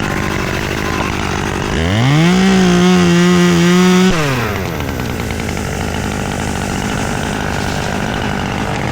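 Two-stroke chainsaw idling, then revved up to full speed for about two seconds and let fall back to idle.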